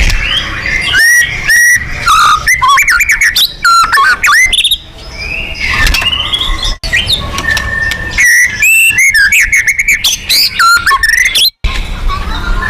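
White-rumped shama singing loudly in rapid runs of sliding whistled phrases, a combative song used to provoke other shamas. It is broken by brief gaps about halfway through and near the end.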